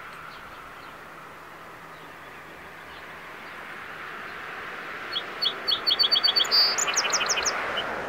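A songbird sings one short song about five seconds in: a quick run of repeated high chirps, then a few falling notes. Under it is a steady outdoor hiss that grows louder toward the end.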